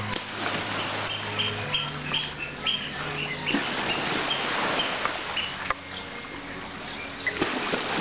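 Birds chirping, short high calls repeating a few times a second in the first half, over a steady rushing hiss and soft background music with long held low notes.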